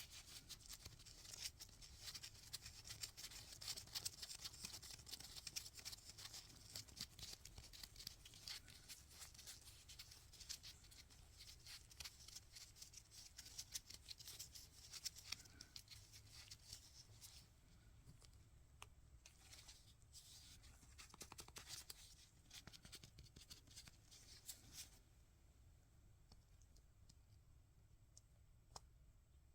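Faint close-up rustling and crackling with many small clicks and taps, as of objects and packaging being handled; dense for the first half and sparser from about 17 seconds in.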